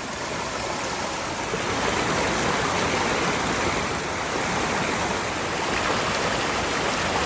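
River water rushing steadily, fading in over about the first second.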